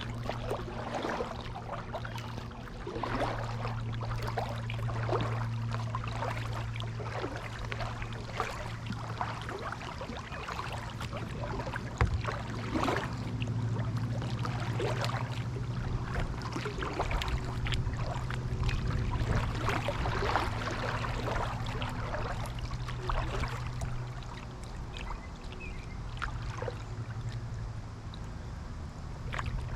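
Kayak paddle dipping and pulling through pond water, with repeated splashes and drips off the blade over a steady low hum.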